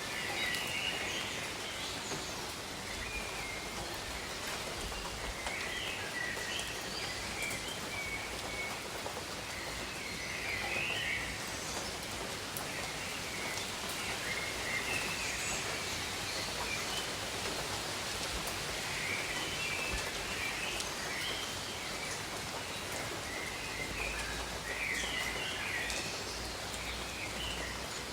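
Steady rain falling on jungle foliage, with birds chirping in short bursts every few seconds through it.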